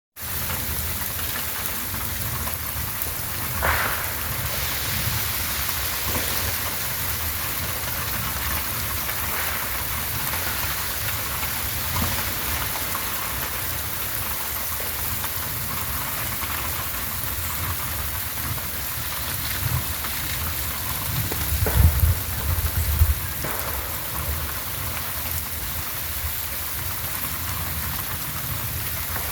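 Freezing rain falling steadily in an ice storm, with a sharp crack about four seconds in and a cluster of heavy low crashes around twenty-two seconds in: ice-laden tree limbs snapping and falling.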